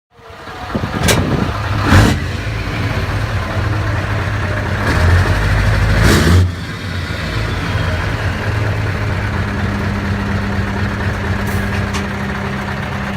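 Scania R620's straight-piped 16-litre V8 running loud, with a few sharp cracks. It builds to a rev about five to six seconds in that drops off suddenly, then runs on steadily.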